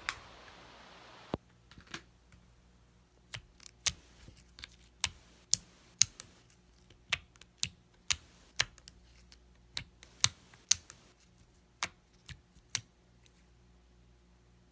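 A series of irregular sharp clicks and taps, roughly one or two a second, after a short soft hiss at the start.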